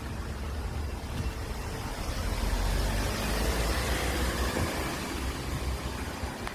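Air rushing over the microphone: a steady hiss with a fluctuating low rumble.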